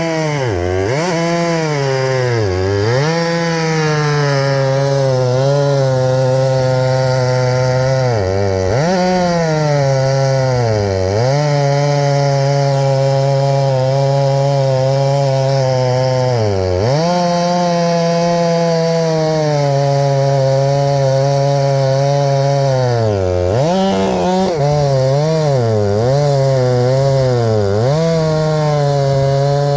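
Two-stroke chainsaw running at high revs while cutting wood, its pitch dropping sharply and recovering each time the chain bogs under load in the cut. The dips come about a second in, at about three, nine, eleven, seventeen and twenty-three seconds, and several quickly in the last few seconds.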